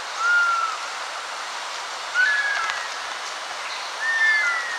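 A bird giving short, slurred whistled calls three times, about two seconds apart, over a steady background hiss.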